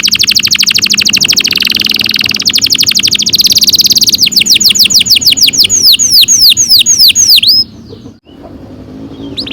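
Domestic canary singing a long rolling trill. A very fast run of rapidly repeated high notes lasts about four seconds, then gives way to slower, falling whistled sweeps that slow down and stop about three-quarters of the way through.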